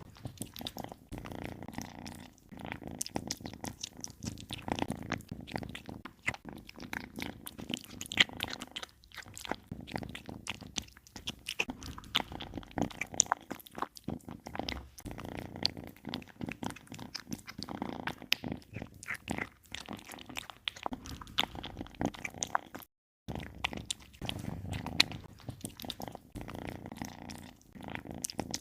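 A kitten chewing and biting meat: a steady run of short, irregular wet clicks and crunches.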